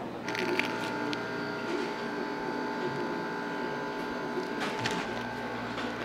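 An electric kitchen machine's motor starts up and runs with a steady whine, with a few light clicks over it.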